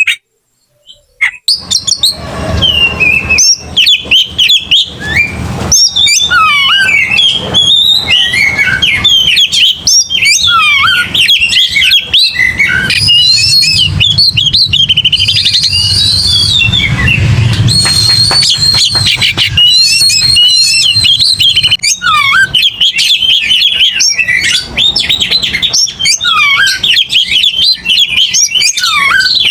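Oriental magpie-robin (kacer) singing loudly and without pause in a rapid, aggressive 'fighting' song of varied whistles, chirps and slurred notes, mixed with mimicked phrases of other birds. It starts after a brief silence in the first second or so.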